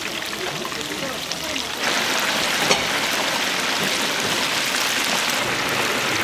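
Chicken deep-frying in hot oil: a steady crackling sizzle that jumps louder about two seconds in, then holds.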